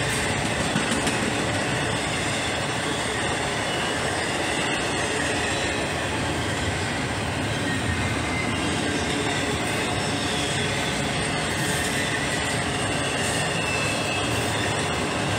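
Freight train cars rolling steadily past, steel wheels rumbling on the rails with a faint wheel squeal.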